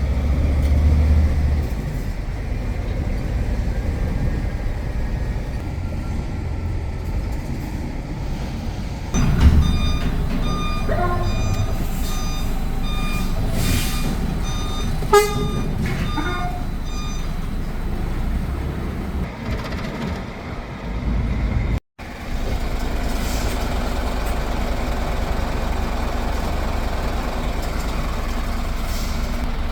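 Truck's diesel engine running steadily, heard from the cab. From about a third of the way in, a series of evenly spaced electronic beeps goes on for several seconds, with a sharp click partway through. The sound cuts out for a moment about three-quarters of the way in.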